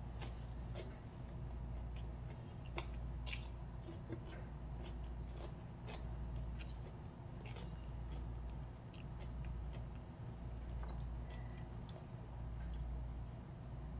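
A person chewing a meal of fried fish and eggplant close to the microphone, with many small scattered mouth clicks and smacks. A steady low hum runs underneath.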